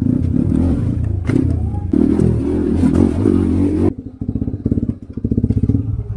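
Motorcycle engine running loud, then about four seconds in the sound changes abruptly to a quieter, rapid pulsing, like the engine ticking over.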